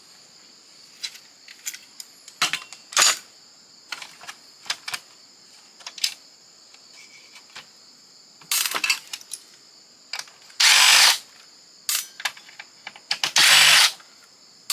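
A cordless drill-driver runs in two short bursts of about a second each, backing screws out of the fax machine's metal frame. Sharp clicks and taps of parts and screws being handled come before the bursts.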